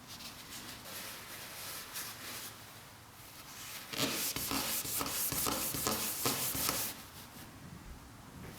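Rubbing strokes on a surface by hand, faint at first, then a louder run of quick repeated strokes from about four seconds in until nearly seven seconds.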